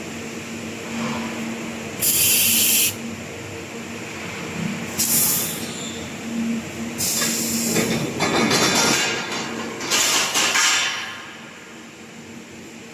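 Automatic scaffolding rosette welding machine at work: four short, sharp-edged hisses like compressed air venting, over a steady machine hum. A rougher crackling stretch runs from about 8 to 11 seconds in, then the noise drops away near the end.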